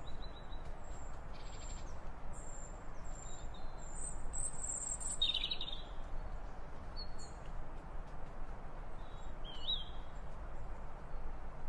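Birds calling: short, thin, high whistles repeated through the first half, a louder warbling call about five seconds in and another near ten seconds, over a steady background hiss.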